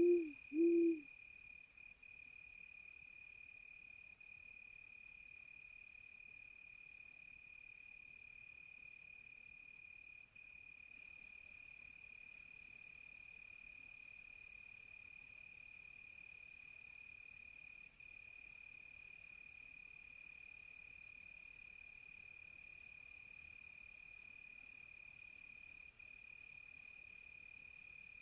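An owl hoots twice in quick succession right at the start, over a continuous high, steady cricket trill that runs on beneath with faint higher insect pulsing.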